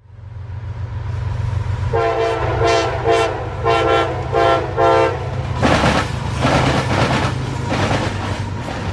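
Diesel locomotive running with a steady low rumble, sounding its multi-tone horn in about six short blasts, then a rushing, clattering noise of the train moving over the rails from a little past halfway.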